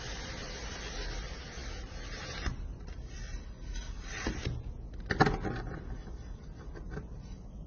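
Metal crinkle cutter pressing down through a block of kinetic sand: a steady grainy hiss that stops about two and a half seconds in, then a few short crunching scrapes as the sand gives way, the loudest a little past five seconds in.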